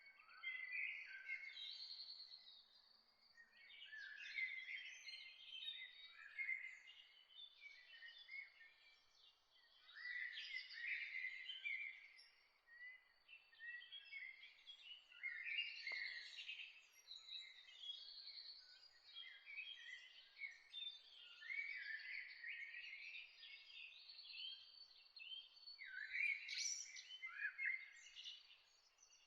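Several birds singing and chirping together in a dawn chorus, overlapping quick trills and chirps, with a faint background hiss.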